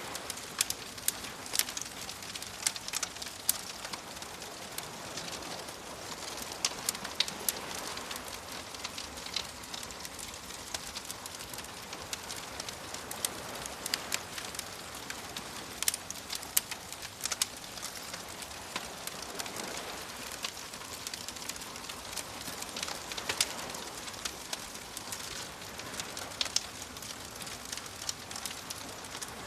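Wood fire crackling, with frequent irregular sharp pops and snaps over a steady hiss, and soft waves washing in slow swells underneath.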